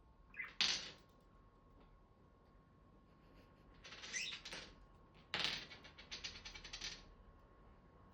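Small pet parrots pecking and scratching with their beaks and feet, in short bursts of tapping and rustling, with a run of rapid clicks about five seconds in.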